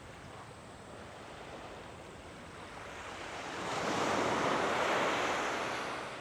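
Waves washing onto a sandy beach: a steady hiss of surf, with one wave swelling about halfway through and fading away before the end.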